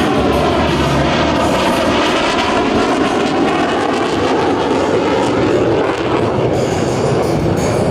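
Single F135 turbofan of an F-35B jet fighter, loud and steady as the jet flies past, with a rushing sweep in pitch that falls and then rises again as it passes.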